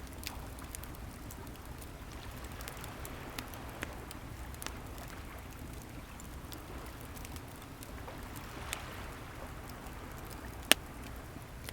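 Bonfire crackling with scattered sharp pops, one loud pop near the end, over the steady low wash of waves.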